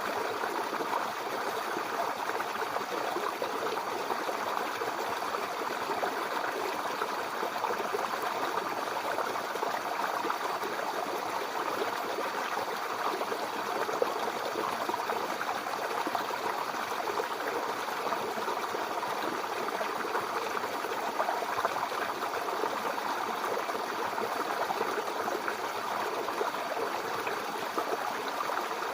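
Small brook babbling and trickling over stones, a steady, continuous flow of water.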